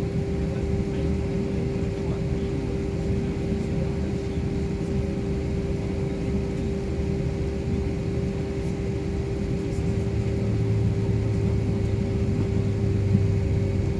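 Steady drone inside an airliner cabin, with a constant hum tone over a low rumble; the low rumble grows a little louder about ten seconds in.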